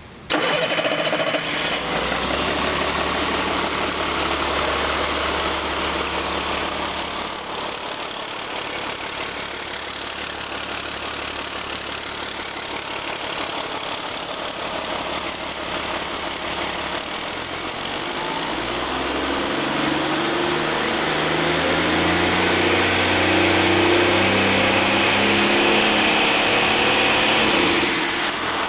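2008 CAT C7 ACERT inline-six diesel engine coming in abruptly just after the start and running, then revved gradually higher through the second half before its speed drops back near the end.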